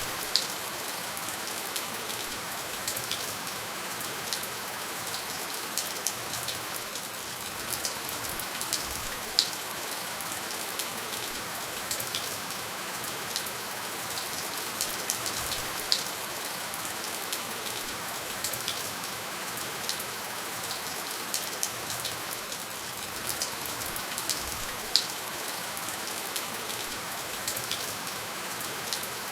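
Steady, gentle rainfall with no thunder: an even hiss of rain with scattered individual drops ticking sharply, a few louder drops standing out now and then.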